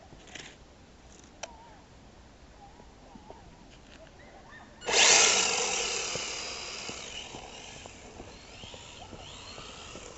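An HPI Maverick RC drift car comes past close by about halfway through. There is a sudden loud burst of tyre hiss and electric motor whine, whose pitch rises and falls with the throttle, then it fades over several seconds as the car moves away.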